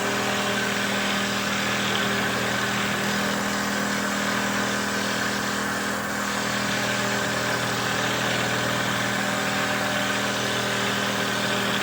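Motor of a homemade wooden dowel-making machine running steadily with a constant hum.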